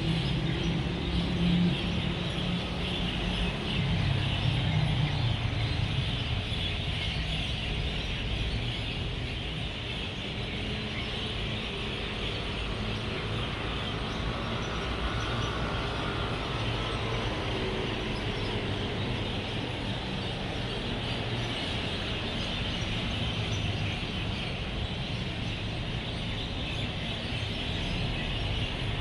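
Dense, continuous chirping of a large flock of birds settling to roost at dusk, over a steady rumble of road traffic. The traffic rumble is louder in the first few seconds, as a vehicle passes.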